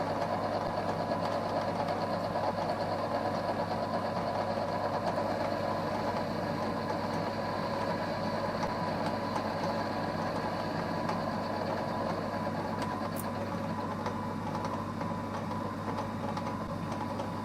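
EMCO Compact 5 lathe running with its spindle turning: a steady mechanical hum with a low drone and a thin whine, easing slightly toward the end, with one light click about two-thirds of the way through.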